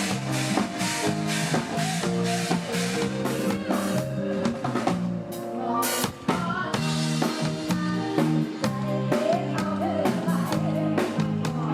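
Live band music with a steady drum-kit beat, bass and a melody line, with a brief drum break about six seconds in.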